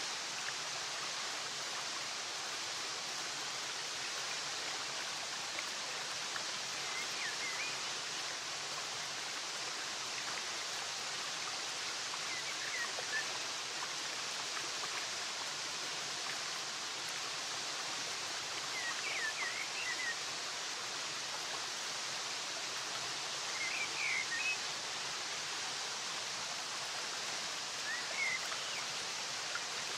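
Steady rush of flowing water, with a few short bird chirps breaking through about five times.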